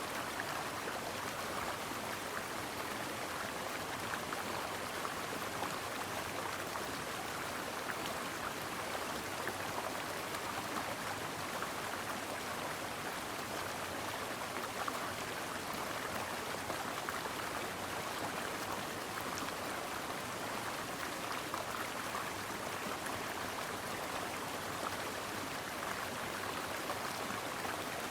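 Stream water flowing and splashing over rocks in a steady, even rush, with fine trickling and splashing detail throughout.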